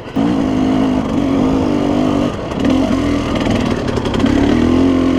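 KTM 300 two-stroke dirt bike engine running under throttle on a trail, loud and close. It eases off about two seconds in and picks up again near the end.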